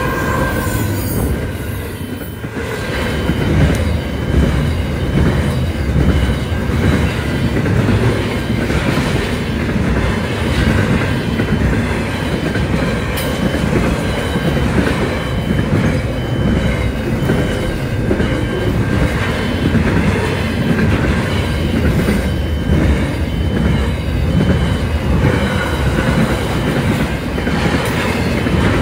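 Aurizon freight train of container flat wagons passing close by at speed: a loud, continuous rumble and clatter of steel wheels on the rails.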